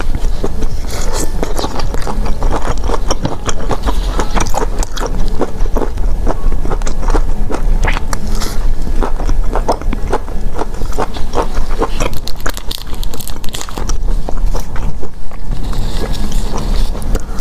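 Close-miked eating sounds: chewing and biting seafood, with a dense run of small wet clicks and smacks throughout.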